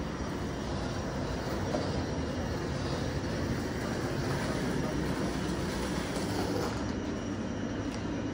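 Steady hum and rumble of a PKP Intercity sleeping-car train standing at the platform, with a few faint clicks near the end.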